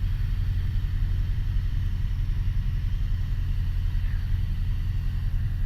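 Piper Warrior's four-cylinder Lycoming engine and propeller droning steadily in flight, heard inside the cockpit as an even low rumble.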